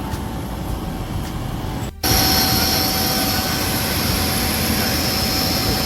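Jet aircraft engine whining steadily, with high whistling tones over a rumble. It is preceded by a quieter low rumble that breaks off suddenly about two seconds in.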